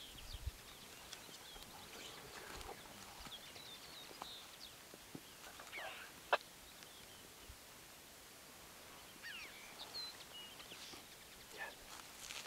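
Faint background of small birds chirping in scattered short calls, some sliding in pitch, with one sharp click about six seconds in.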